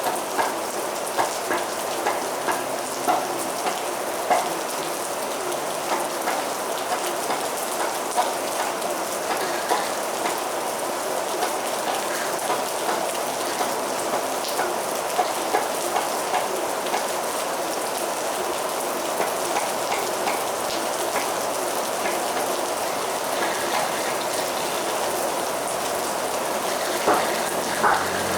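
Heavy rain falling steadily, with many individual drops striking close by as sharp clicks, a few louder ones near the end.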